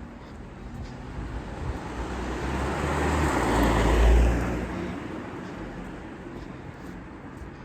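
A car passing by on the street: its tyre and engine noise swells to a peak about four seconds in, then fades away.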